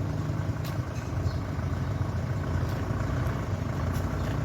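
A steady low engine rumble, like a motor vehicle idling, with a few faint high ticks over it.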